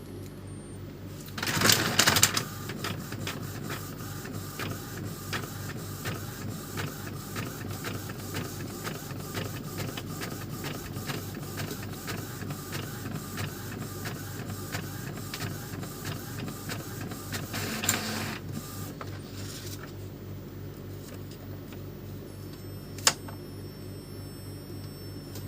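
Epson L310 inkjet printer running its mechanism, after a louder burst of movement near the start, with regular clicks about three times a second that stop suddenly with a louder knock; a single sharp click follows a few seconds later. It is the printer's head-cleaning cycle, running on a replacement carriage motor.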